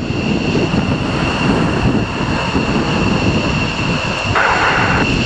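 Jet aircraft engines running at taxi power: a steady, loud rumble with a high, even whine over it. Near the end comes a brief burst of airband radio static.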